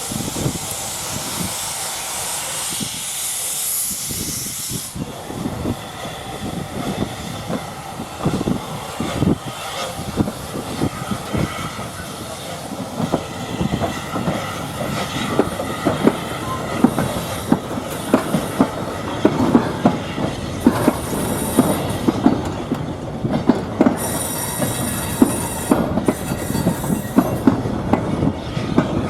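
A heritage railway train rolling slowly, wheels clattering irregularly over rail joints with occasional high wheel squeal. A loud steam hiss fills the first few seconds before the clatter takes over.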